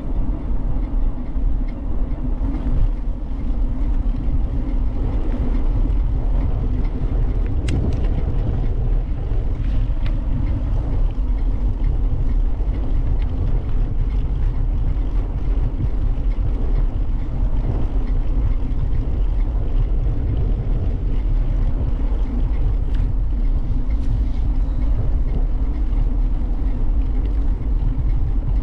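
Steady low rumble of wind buffeting and rolling noise on a camera carried on a moving bicycle, with a couple of faint clicks about a quarter of the way in and again about three quarters through.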